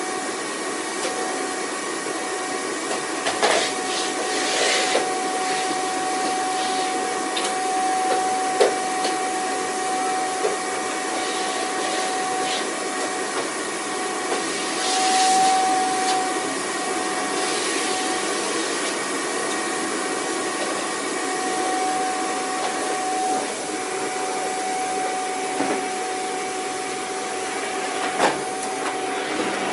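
Vacuum cleaner running steadily: a constant motor whine over a rushing hiss, with a few short knocks and a brief swell of hiss about halfway through.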